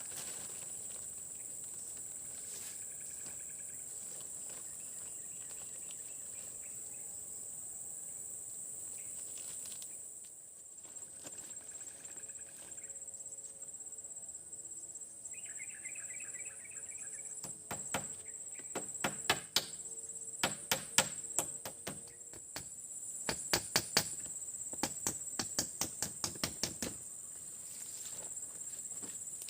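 Steady high-pitched insect chorus, with a short bird-like call partway through. In the second half comes a run of sharp knocks in quick bursts, louder than the insects.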